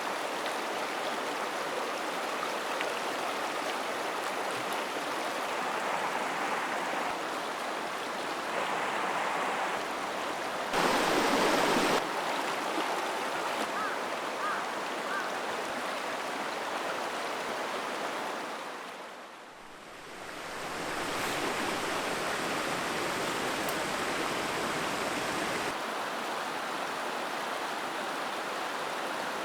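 Mountain stream rushing steadily over rocks. The level jumps abruptly a few times: briefly louder about eleven seconds in, then it fades down and back up around twenty seconds.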